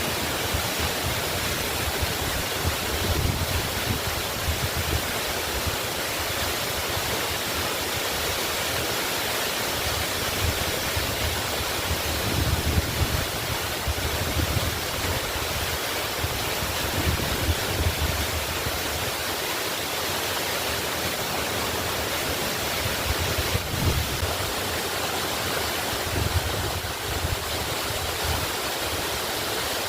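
Waterfall rushing steadily, a constant full hiss of falling water with low rumbles swelling and fading every few seconds.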